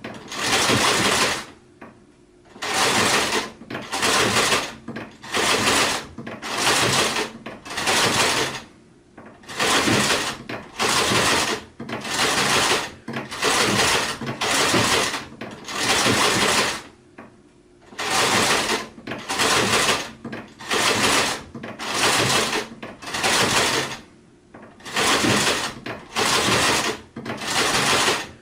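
Sewing machine running in short bursts of about a second, stopping and starting over and over, with a few longer pauses between runs.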